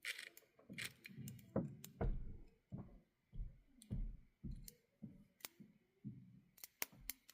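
Light, irregular clicks and soft taps from small parts of an HO scale model locomotive and tender being handled and fitted together, a dozen or so spread over several seconds.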